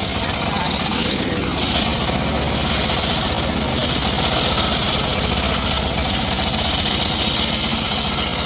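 Engine running steadily at an even speed, with no clear rise or fall in pitch.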